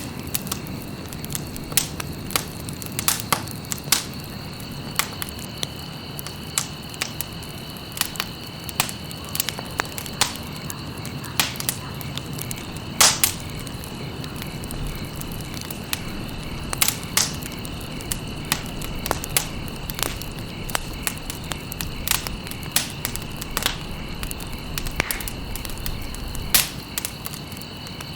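Campfire crackling, with irregular sharp pops a few times a second and a louder pop about halfway through, over the low steady rush of the flames. A faint steady high-pitched tone runs underneath.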